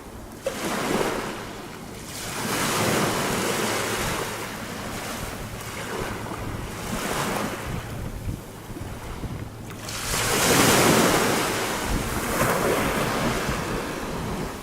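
Small sea waves breaking and washing up onto a shore of small pebbles, a hiss that swells and falls back every few seconds, loudest about ten seconds in.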